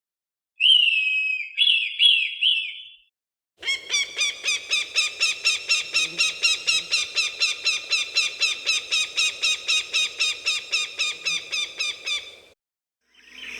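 Falcon calls: a few short, harsh cries, then after a brief pause a long, rapid run of repeated 'kek' notes, about five a second, which stops shortly before the end.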